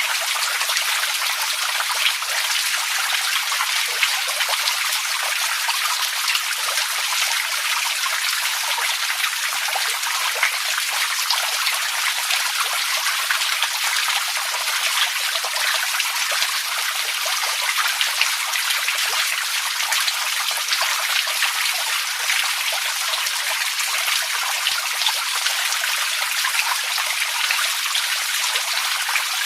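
Running water trickling and splashing steadily, a constant rush dotted with many small drips and splashes.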